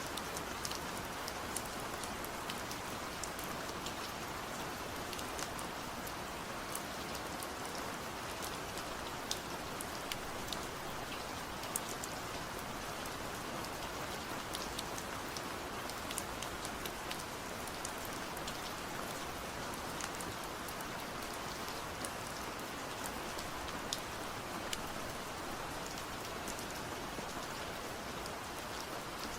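Steady rain falling, with a constant hiss and many separate drops ticking on a surface.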